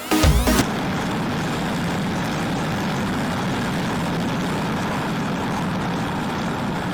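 Motorcycle running at a steady speed: an even engine hum with riding noise, after electronic music cuts off about half a second in.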